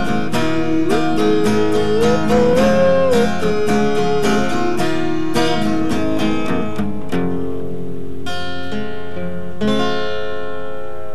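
Acoustic guitar strummed through the closing bars of a song. After about seven seconds the strumming stops, and two single chords are struck and left to ring out.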